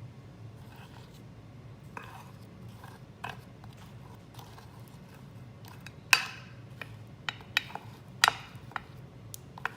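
Spoons clicking and scraping against a plate as chocolate-coated pretzels are pushed into a nest shape: scattered light knocks, the sharpest about six and eight seconds in.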